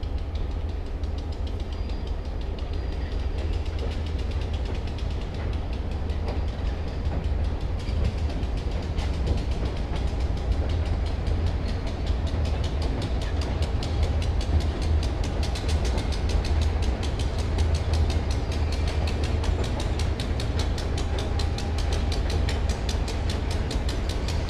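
Passenger train rolling past, its wheels clicking steadily over the rail joints; the clicking grows denser and more regular about halfway through. A heavy low rumble of wind buffets the microphone throughout.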